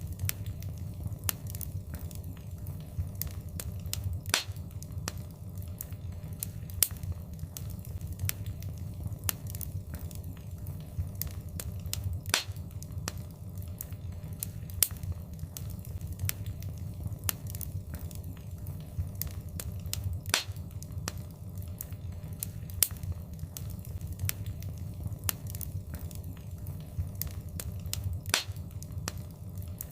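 Wood fire burning in a fireplace: a steady low rumble of flames with frequent sharp crackles and pops, a few of them louder than the rest.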